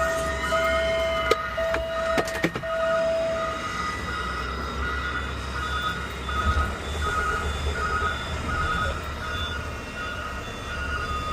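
Peterbilt 520 CNG automated side-loader garbage truck running, heard from the cab as a steady low rumble. A series of steady electronic warning beeps sounds for the first few seconds, and a few sharp clicks come early on.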